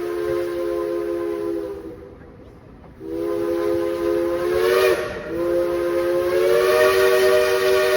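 Steam locomotive chime whistle blowing long blasts, a chord of several steady tones. It stops about two seconds in, sounds again a second later, wavers briefly near the middle, then holds.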